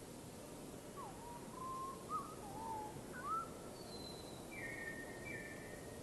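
A bird whistling a short phrase of clear, sliding notes: lower, wavering notes first, then a few higher, slightly falling notes near the end, over a steady hiss.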